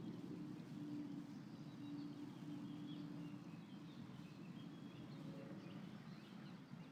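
Faint outdoor ambience: a low steady hum, with a faint tone in it that fades out about halfway through, and scattered faint bird chirps.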